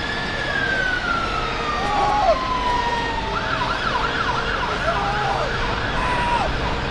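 Emergency vehicle siren sounding a long, slowly falling wail, then switching a little past three seconds in to a fast yelp of about four sweeps a second, over a steady low engine rumble.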